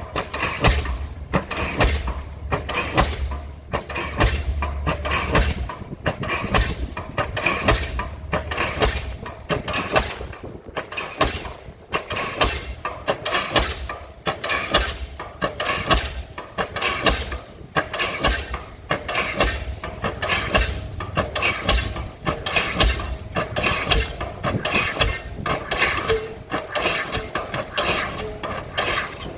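Diesel pile hammer driving a pile: a steady, even rhythm of sharp blows that goes on without a break, with a low engine hum under the first few seconds.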